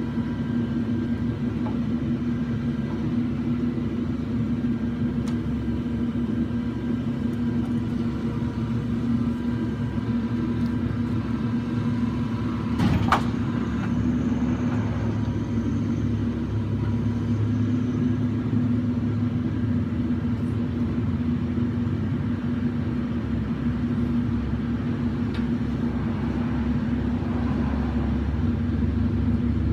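Claw truck's engine running steadily with a low drone, and a single sharp knock about halfway through.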